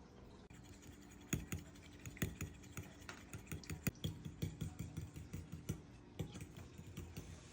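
A kitchen utensil tapping and clicking against cookware in quick, irregular strokes as eggs are prepared, starting about a second in.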